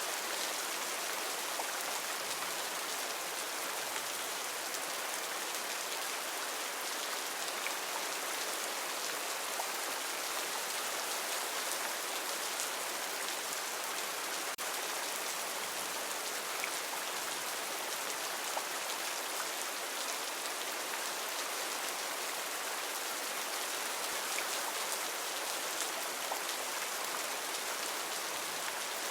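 Heavy rain falling steadily on rainforest foliage: a dense, even hiss with the patter of countless drops.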